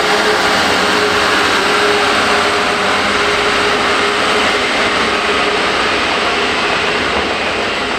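A train running past: a loud, steady rush of running noise with a faint held tone, easing slightly near the end.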